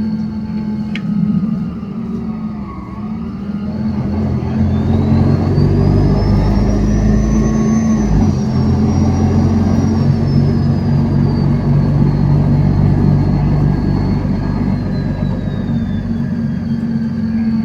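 Mercedes-Benz bus engine running, then pulling away about four seconds in, louder, with a high whine that climbs and then slowly falls away.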